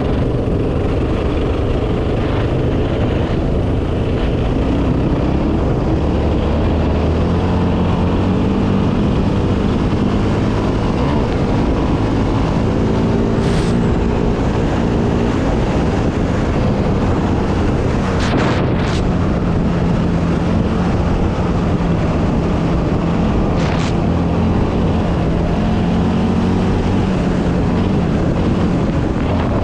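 Yamaha Raptor 700R quad's single-cylinder four-stroke engine running steadily, its pitch rising and falling with the throttle. A few short sharp clicks come about midway and again later.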